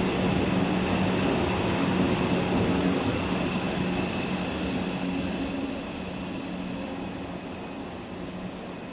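Tobu electric train running along the station platform: a steady low hum with thin high squealing tones over the running noise, fading gradually as it moves away or slows.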